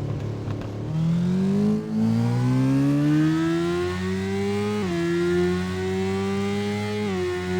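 Motorcycle engine accelerating, its pitch climbing steadily, then dropping sharply twice, about five and seven seconds in, as it shifts up a gear.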